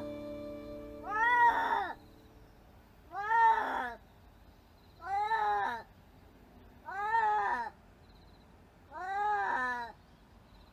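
A very old domestic cat, 23 years old, meowing over and over: five drawn-out meows about two seconds apart, each rising and then falling in pitch.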